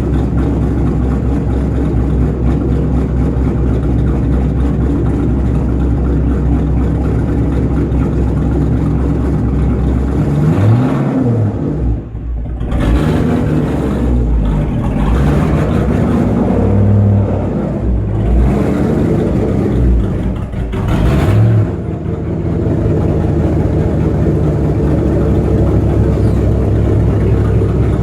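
A 2010 Mustang GT's V8, fitted with aftermarket hot rod cams and an SLP Loudmouth exhaust, idling shortly after a cold start. It is blipped up in revs a few times near the middle, then settles back to a steady idle.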